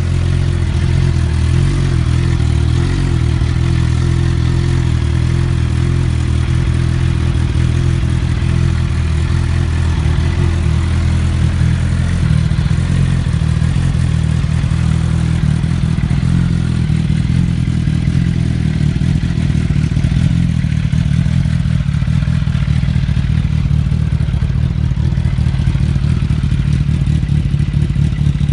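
Suzuki GSX-R750's inline-four engine, fitted with a full aftermarket exhaust system, running steadily at a loud, even idle.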